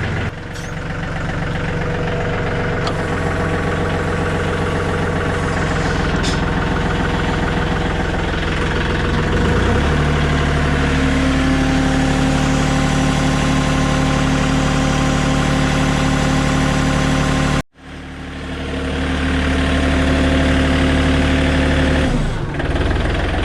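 John Deere 3320 compact tractor's three-cylinder diesel running while the three-point hitch lifts a backhoe, its pitch rising about ten seconds in as the engine takes on more speed and load. The sound cuts out for a moment near the end, then the engine picks up again and drops back toward idle.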